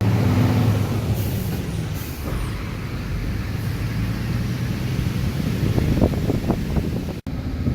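Vehicle engine running with a steady low rumble and road noise, with a few knocks near the end.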